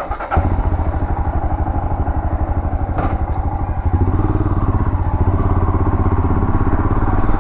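Royal Enfield Himalayan 411's single-cylinder engine idling with an even, steady thump of firing pulses, a little louder from about four seconds in.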